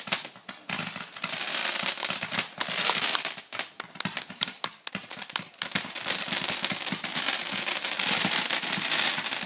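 Consumer fireworks crackling: dense, rapid snaps and pops over a hiss, with a short lull about halfway through.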